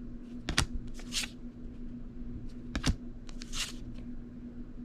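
Playing cards being handled and leafed through one at a time: a few short swishes of card sliding on card and a couple of sharp taps.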